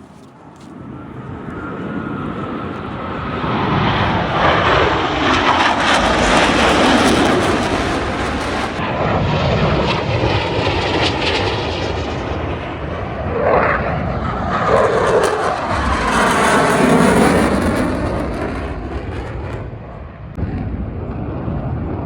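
F/A-18 Super Hornet jet engines during a flying display, loud as the jet passes, swelling twice and then easing, with a sweeping, rising-and-falling rush in its tone.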